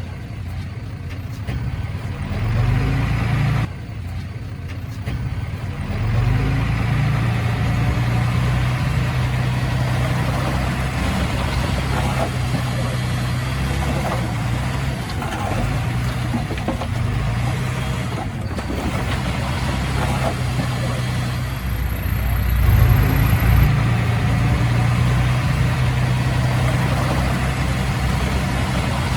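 Heavy earthmoving machinery's diesel engine running steadily under load, the revs rising a few times, with a sudden drop in level about four seconds in.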